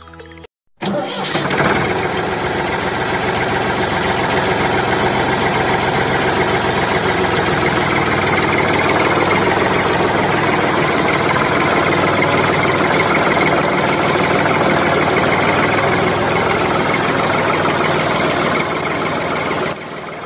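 An engine running steadily; it starts abruptly about a second in and cuts off suddenly near the end.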